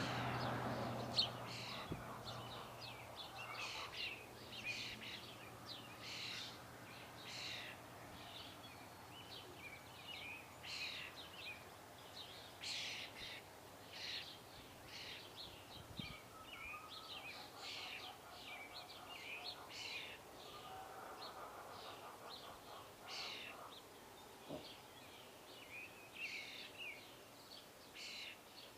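Small birds chirping: many short, high calls, some in quick runs, scattered throughout over a faint outdoor hiss.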